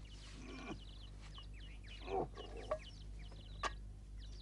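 Small birds chirping again and again in short high calls. A brief lower sound falling in pitch comes about two seconds in, and a sharp click a little later.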